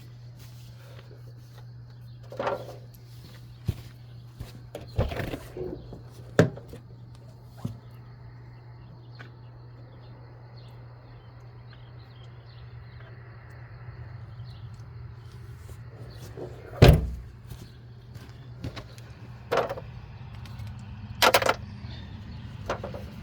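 Scattered knocks and clanks as tools and brake parts are handled during front brake work, about eight of them and loudest about 17 seconds in, over a steady low hum.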